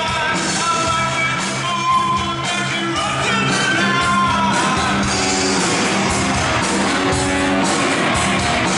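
Rock music with a singing voice over electric guitar and a full band.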